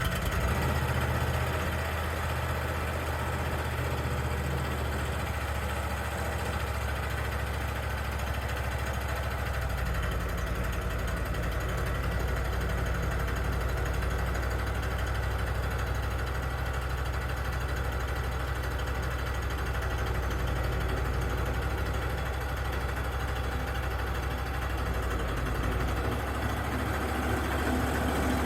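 Engine of a Wood-Mizer LT35 portable bandsaw sawmill idling steadily, freshly started; its low note shifts slightly about ten seconds in and again near the end.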